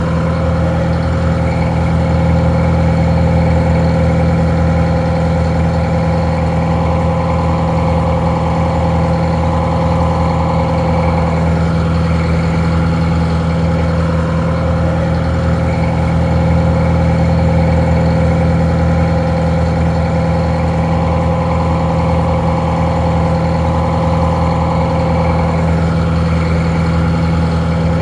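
Detroit Diesel 4-71 two-stroke diesel engine idling steadily, a low even drone with a steady whine above it. The recording sounds a little muffled.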